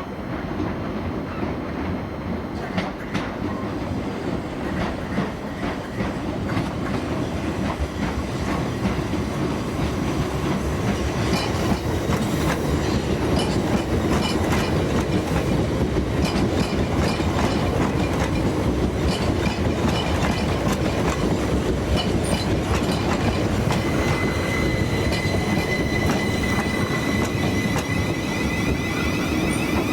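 Class 387 electric multiple unit running on the rails, a steady rumble with the clatter of wheels over the track. A steady high whine joins near the end.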